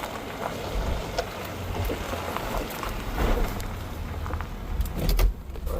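Pickup truck driving on a rough dirt forest road: a steady low rumble of engine and tyres with scattered clicks and knocks.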